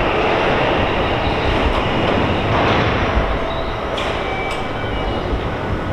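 Electric train noise at a station platform: a steady rumbling din, with a couple of faint clicks about four seconds in.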